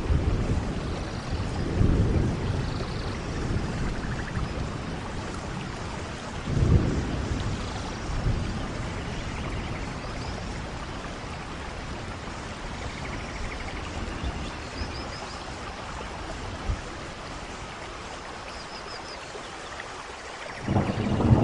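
Steady rain falling, an even hiss throughout, with a few brief low rumbles about two and seven seconds in and again near the end.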